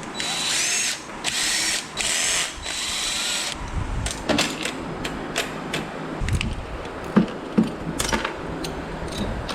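A power drill run in three short bursts, its motor whining up in pitch each time as fasteners are driven out of a scrap metal cabinet. After that come scattered metallic clicks, knocks and a few dull thumps as parts are handled.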